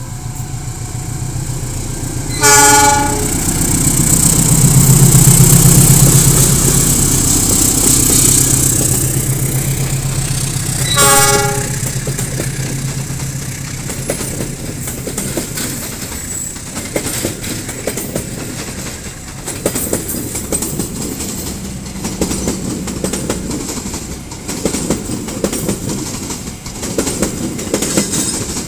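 KAI diesel-electric locomotive sounding two short horn blasts, about eight seconds apart, as it pulls a passenger train past. Its engine drone is loudest just after the first blast, then the coaches follow with wheels clattering over the rail joints.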